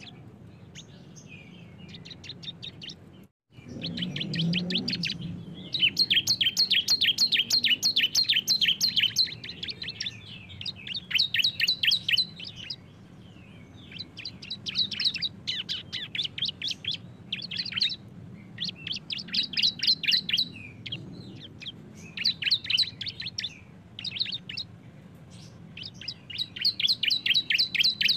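Two bar-winged prinias (ciblek) singing their rapid 'ngebren' song: fast trilled series of sharp chirps in phrases of one to four seconds, separated by short pauses. The sound drops out briefly about three seconds in.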